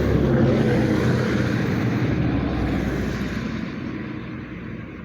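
A motor vehicle driving past, its engine loud at first and then fading steadily as it moves away.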